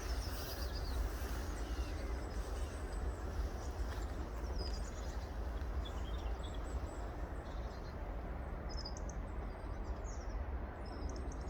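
Steady low wind rumble on the microphone, with small birds giving short high chirps here and there, more often in the last few seconds.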